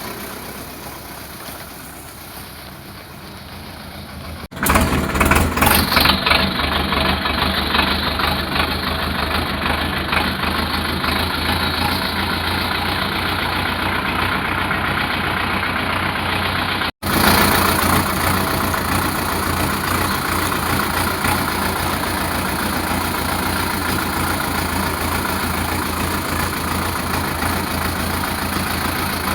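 Sonalika DI 750 tractor's diesel engine running steadily. It is quieter at first, comes in much louder after an abrupt cut about four and a half seconds in, and drops out for an instant around the middle.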